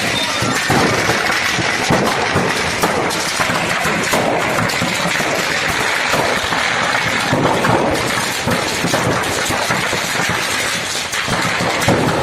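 Firecrackers in a burning shop's stock going off in a dense, continuous run of cracks and pops over the noise of the fire.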